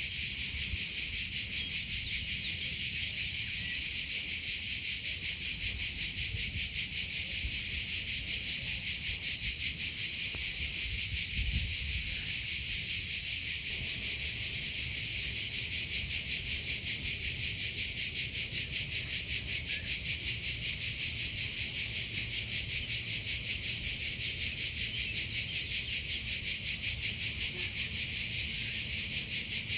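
Crickets chirping in a steady, rapidly pulsing high-pitched chorus that keeps on without a break.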